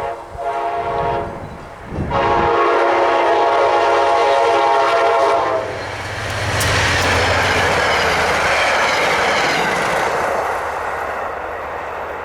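Passenger train's multi-tone horn blowing: a blast that ends about a second in, then a long blast of about four seconds. The train then passes close by with a loud, steady noise of wheels and rushing air that fades near the end.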